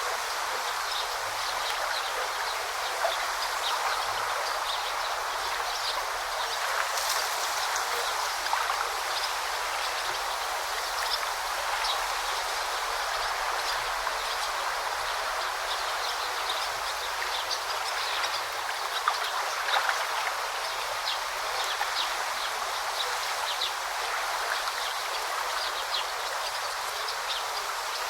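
A forest stream babbling steadily, with many small splashes and trickles over it, and birds chirping now and then.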